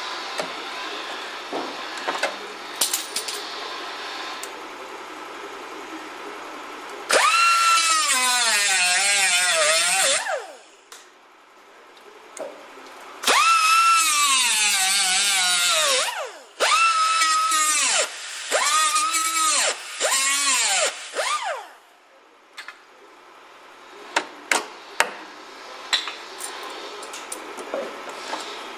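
A handheld power tool run in five bursts on car body metal, whining loudly, its pitch sagging as it bites and dropping away as it is let off. Lighter knocks and taps on the metal come before and after the bursts.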